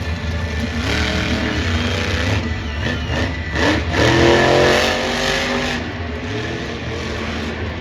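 Monster truck's supercharged, alcohol-fuelled engine revving up and down, loudest about four seconds in.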